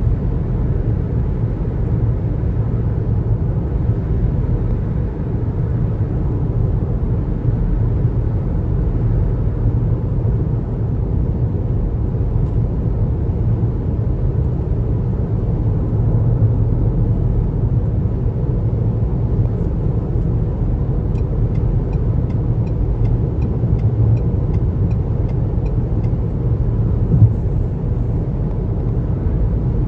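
Car driving at highway speed: a steady low rumble of road and tyre noise. Past the middle there are a few seconds of faint, quick, regular ticking, and there is a single short thump near the end.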